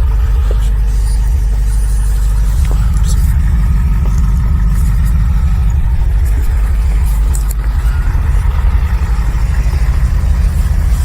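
Loud, steady low rumble of a running SUV in blizzard winds of about 35 to 40 mph, with a few faint ticks over it.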